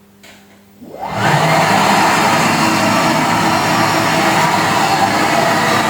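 Lavor Comfort XXS floor scrubber-dryer's cleaning motors switched on: a click, then about a second in the motors spin up quickly to a loud, steady whir and keep running.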